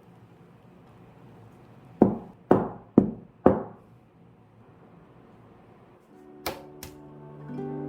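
Four sharp knocks about half a second apart, each with a brief ring, on a hard surface; soft background music begins near the end.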